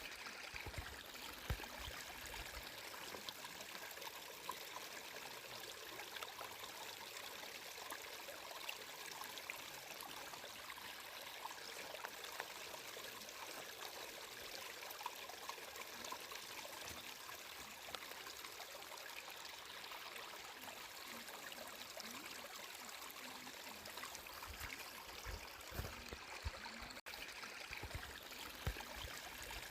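Water flowing and trickling steadily, a small stream with many small splashes and occasional soft low thumps.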